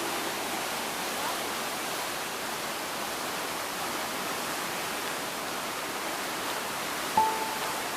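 Large waterfall, water rushing steadily as an even hiss of noise. About seven seconds in, a single ringing musical note starts.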